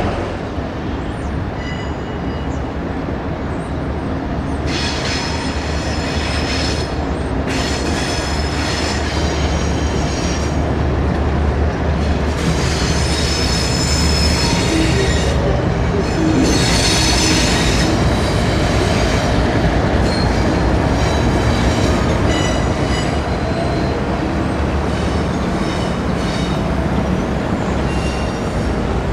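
A train rolling past with a heavy, steady rumble of wheels on rail and high wheel squeals that come and go. It grows loudest around the middle.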